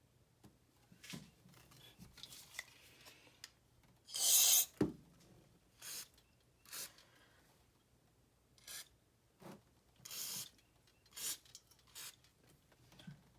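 A series of short scraping and rubbing strokes from hand work on small parts, about ten in all at uneven intervals. The loudest and longest comes about four seconds in and ends in a knock.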